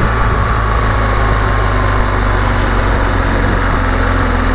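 BMW GS Adventure motorcycle engine running steadily at low revs, with a faint high whine that falls slightly in pitch during the first second or so.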